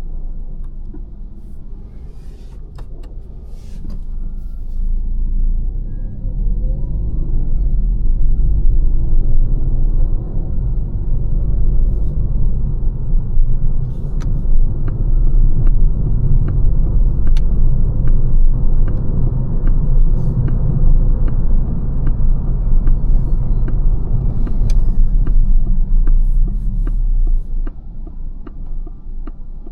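Road and tyre rumble of a 2025 Lancia Ypsilon on the move, a low steady rumble that grows louder over the first several seconds, holds, and drops off near the end, with scattered small clicks over it.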